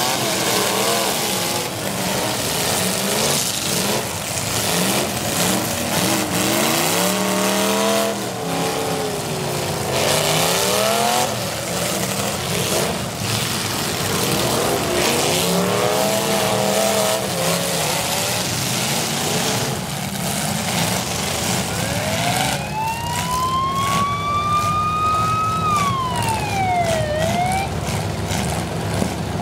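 Several demolition derby cars' V8 engines running hard and revving up and down. Near the end one engine winds up to a high, rising whine for about four seconds, then drops away quickly.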